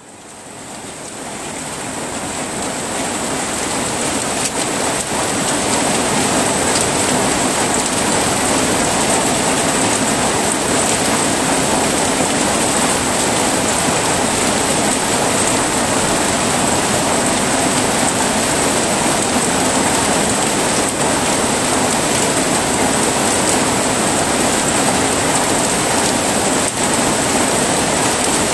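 Heavy rain falling steadily in a dense, even downpour, fading in over the first few seconds.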